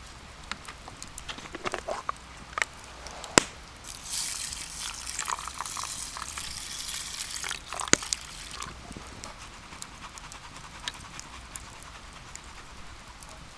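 Campfire cooking sounds: a hissing stretch in the middle, like liquid going into a hot pan, over scattered small clicks of utensils, with two sharp knocks about three and eight seconds in.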